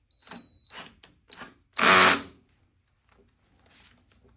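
Electric drill run in several short bursts, the longest and loudest about two seconds in, spinning on the crankshaft nut to turn over a 150cc GPX engine, which does not start.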